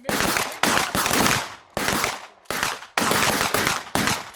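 Shotgun blasts from several shooters on a firing line: about seven loud reports at uneven intervals, some overlapping, each trailing off in echo.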